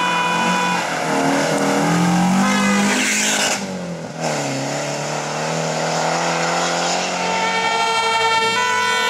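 Historic rally car engine revving hard under acceleration, its pitch climbing, with a brief lift about three and a half seconds in for a gear change before it revs up again and holds high.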